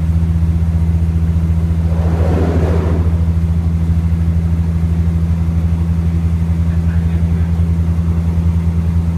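Diesel train running, heard from inside the carriage: a steady low engine drone with a fast pulsing throb, and a brief rush of noise about two seconds in.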